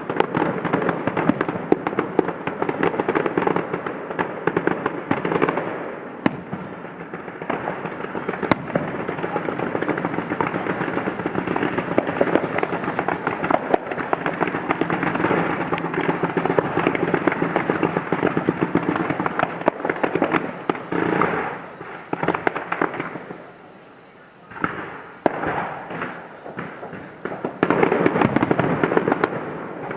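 Fireworks display: dense, continuous bangs and crackling from bursting shells. The barrage thins to scattered reports about three-quarters of the way through, then builds back up near the end.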